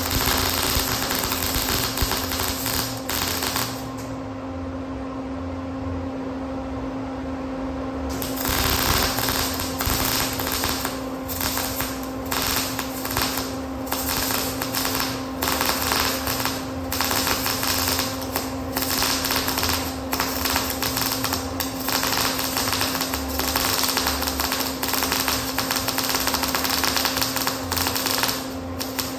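MIG welding arc crackling as reinforcement plates are welded onto a 9-inch Ford differential housing, with a steady low hum underneath. The crackle stops for about four seconds about four seconds in, then resumes.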